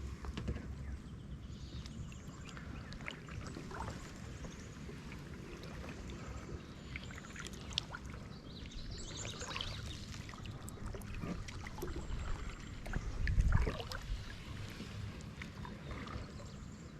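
Kayak paddling: the paddle dipping and water splashing and dripping, with scattered small clicks and a steady low rumble. There is a louder low bump about three-quarters of the way through.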